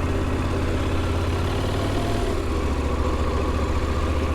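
Motorcycle engine running steadily at low revs, a low, even engine note with no change in pitch.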